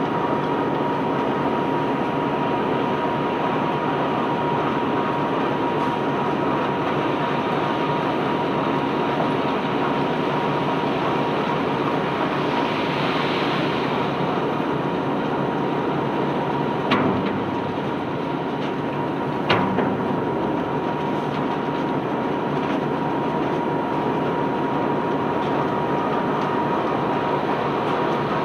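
Ship's sand-unloading conveyor belt running: a steady rumble with a constant whining tone, and two sharp knocks about two and a half seconds apart a little past the middle.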